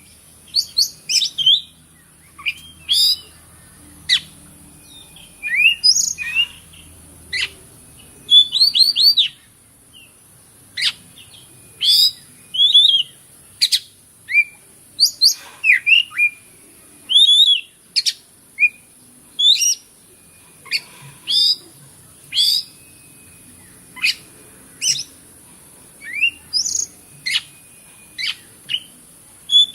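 Oriental magpie-robin (kacer) singing a run of short, varied whistled phrases and sharp chirps, some sliding in pitch, with brief pauses between them.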